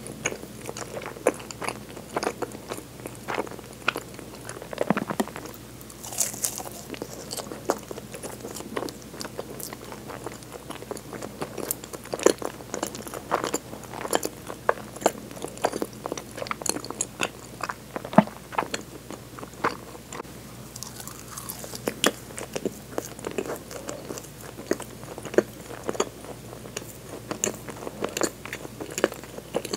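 A person chewing sweet bakery food close to a clip-on microphone: a steady stream of small irregular mouth clicks and soft crackles, with a few sharper bites now and then.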